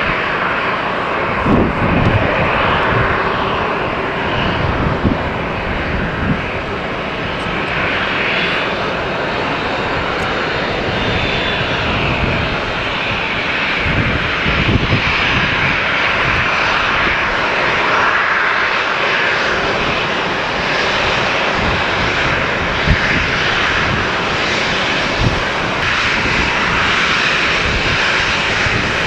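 Embraer E170 airliner's twin GE CF34 turbofan engines running as the jet comes in to land: a steady, continuous jet rush.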